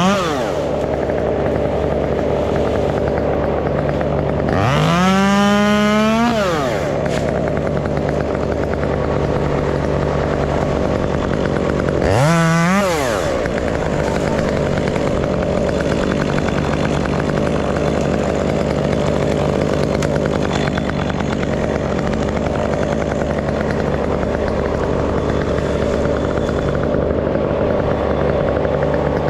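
Stihl 201 two-stroke chainsaw idling, revved up twice: once for about two seconds early in the clip, then briefly again about twelve seconds in, each time falling back to idle.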